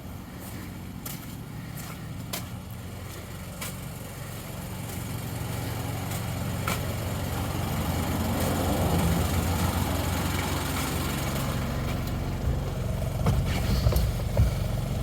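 A motor vehicle's engine running steadily, growing louder over the first half, with a few light clicks and knocks over it.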